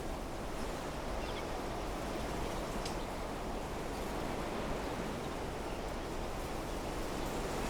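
Steady wind blowing through trees, the leaves rustling, with a few faint, short high chirps now and then.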